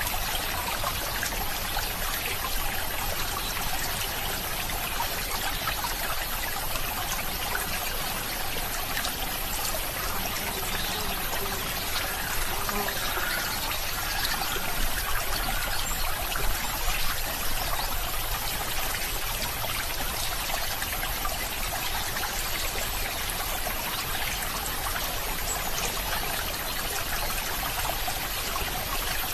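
A stream of water trickling and running steadily.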